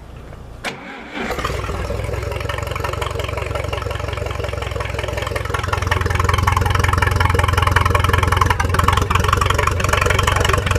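Minneapolis-Moline Jet Star 3 tractor engine starting: a click, a brief crank, and it catches about a second in, then runs steadily and gets louder about halfway through, running without its exhaust pipe.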